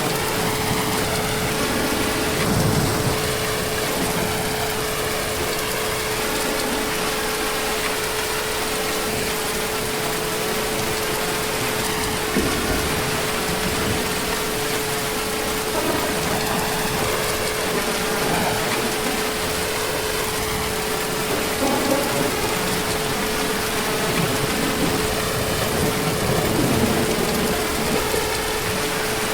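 Heavy, steady rain falling in an even wash of noise, with a thin steady tone running underneath throughout.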